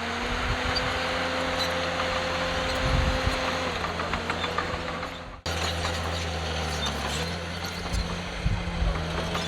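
Heavy diesel earthmoving machinery running under load, with a few knocks. The engine note drops about four seconds in, cuts off abruptly at an edit about halfway, and rises again near the end.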